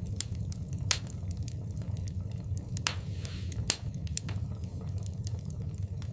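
Wood fire burning in a fireplace: irregular sharp crackles and pops over a steady low rumble of the flames, with the loudest pops about a second in and near the middle.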